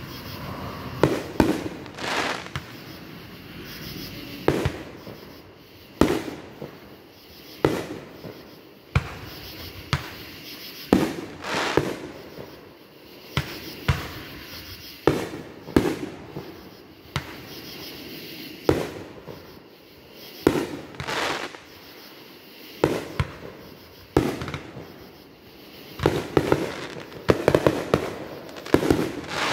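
Aerial fireworks bursting: a series of sharp bangs every second or two, with a quick run of bangs near the end.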